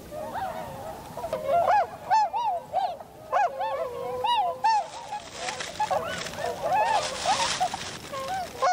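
A flock of tundra swans calling: many short, arched honking calls from several birds overlapping one another, densest in the first half.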